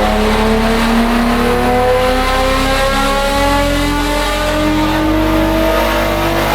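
Nissan GT-R R35's twin-turbo V6 accelerating hard through one long pull, its note rising steadily, breathing through a catless downpipe and catback exhaust.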